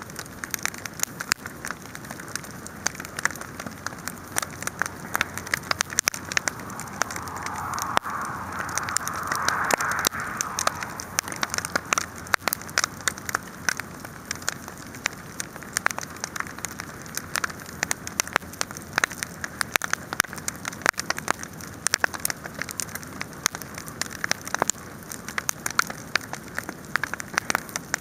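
Wood fire crackling, with frequent sharp pops and snaps over a steady hiss. A hiss swells and fades again about seven to eleven seconds in.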